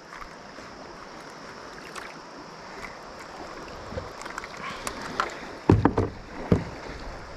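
Water rushing and lapping around a kayak, with scattered small clicks and knocks. Two louder thumps or splashes come near the end.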